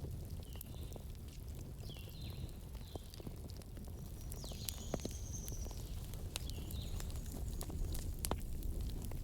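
Campfire burning: a steady low rumble of flames with irregular sharp crackles and pops from the wood, and a few short high-pitched chirps or whistles here and there.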